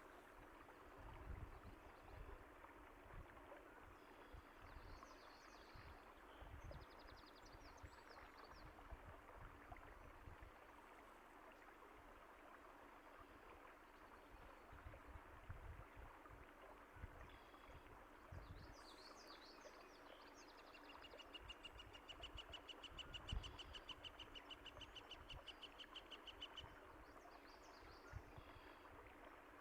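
A stream running steadily, faint, with songbirds chirping over it now and then and a fast, even trill for several seconds about two-thirds of the way through.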